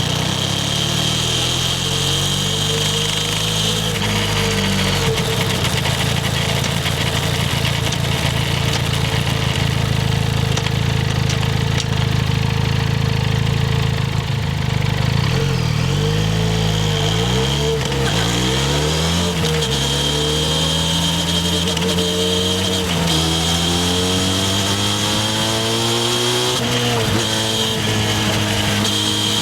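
Harley-Davidson X350's parallel-twin engine under way on a ride: it holds steady revs for several seconds, eases off around the middle, then pulls up with a rising pitch, dipping briefly twice near the end at gear changes.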